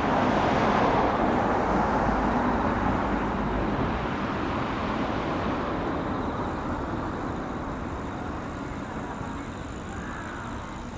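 Tokaido Shinkansen train going past at speed: a rushing noise, loudest in the first two seconds, that fades away steadily as the train recedes.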